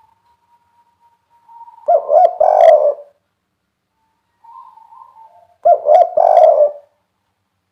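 Spotted dove cooing in its three-note 'kuk 3' pattern. Two call phrases come about four seconds apart, each a few quick short notes running into a longer coo.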